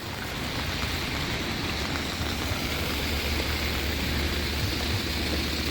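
Steady rain hiss over the low, even hum of a motor vehicle engine running close by.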